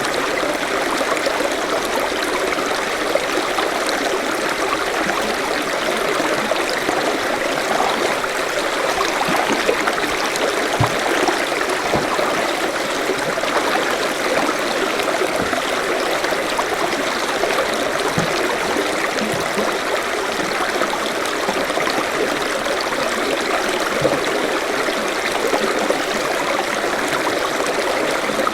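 Forest stream flowing steadily over rocks, a continuous babbling rush with the odd small splash.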